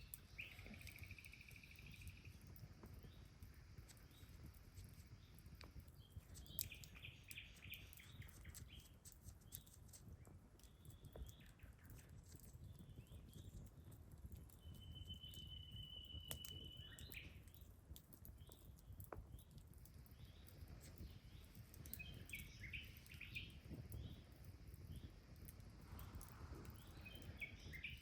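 Faint birdsong: short trills near the start, around a quarter of the way in and near the end, and one held whistle about halfway through. Scattered faint crackles from a campfire sound over a low rumble.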